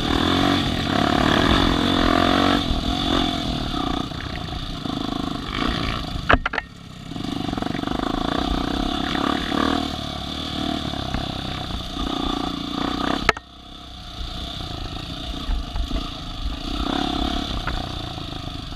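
Off-road vehicle engines running, their sound rising and falling, with two sharp clicks, each followed by a sudden drop in level.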